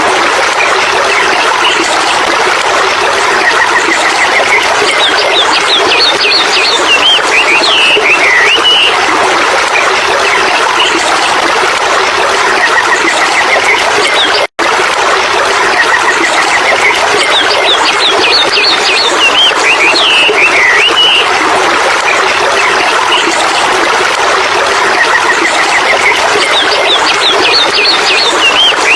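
Birds calling, with repeated chirps and short warbling phrases, over a loud, steady rushing hiss. The sound cuts out for an instant about halfway through.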